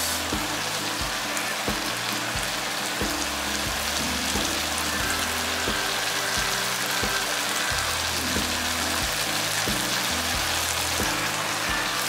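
A stir-fry of pork and vegetables in a starch-thickened sauce, sizzling steadily in a frying pan on the stove. Background music with changing bass notes and a steady beat plays throughout.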